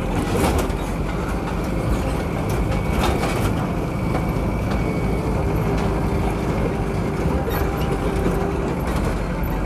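A truck driving, with its engine running and a steady rumble of road noise, and several short knocks and rattles from the body along the way.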